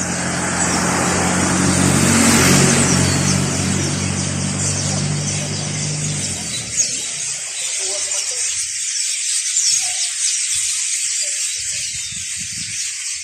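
A big flock of Eurasian tree sparrows chattering nonstop in a tree, a dense mass of short chirps. A vehicle engine runs low and steady underneath until about six seconds in, then stops.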